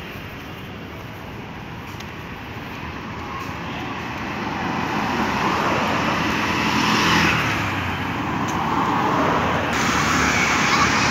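Road traffic: motor vehicles passing close by, the tyre and engine noise swelling to a peak about halfway through, easing, then building again near the end.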